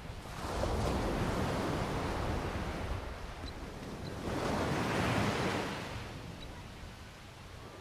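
Ocean waves breaking on the shore: two surges of surf, the first about half a second in and the second around four seconds in, each fading back.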